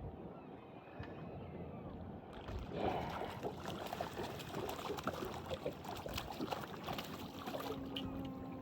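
Water sloshing around a small fishing boat, busier from about two seconds in, with scattered small knocks and clicks.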